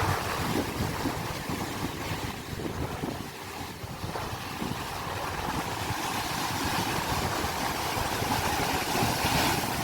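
Steady rushing noise of wind and sea water.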